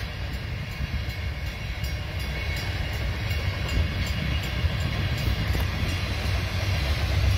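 Loaded tank cars of a freight train rolling past close by, a steady low rumble of steel wheels on rail.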